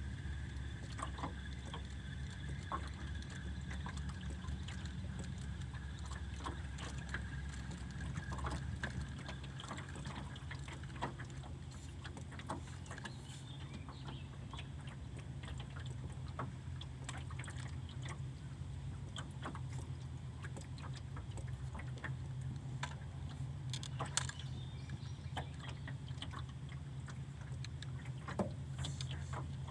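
A steady low mechanical hum, with scattered small clicks and taps.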